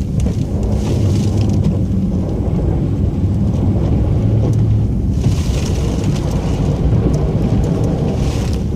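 Snow plow truck's engine running steadily, a low drone heard from inside the cab, with brief hissing noise about five seconds in and again near the end.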